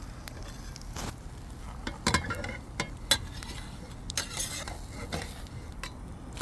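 Utensils clinking, tapping and scraping against cookware while breakfast-burrito fillings are handled, with a cluster of clicks about two to three seconds in, over a faint steady sizzle of frying food.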